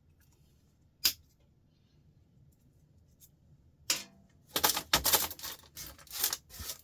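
One sharp click about a second in. From about four seconds on comes a busy run of clinks and clatter, small metal scrap parts being handled and knocked together.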